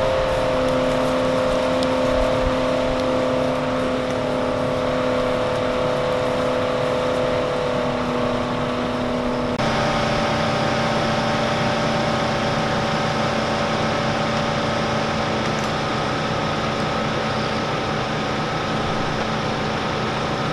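Steady hum of an idling vehicle engine with a few held tones in it. The hum shifts to a slightly different pitch about ten seconds in.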